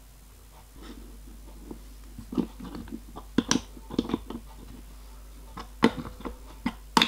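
Irregular metallic clicks and knocks of steel parts being handled and fitted onto a machine mandrel, a few of them ringing briefly, starting about two seconds in, over a steady low hum.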